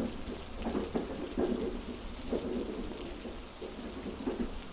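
Heavy rain falling steadily over a low continuous rumble, with soft knocks at uneven spacing.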